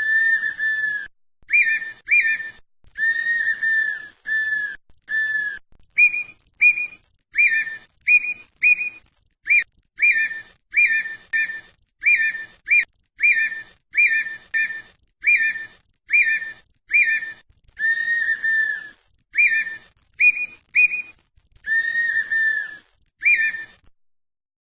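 Red-winged tinamou (perdiz) singing: a long series of loud, clear whistled notes, short rising whistles mixed with longer level ones held about a second, repeated roughly once a second and stopping near the end.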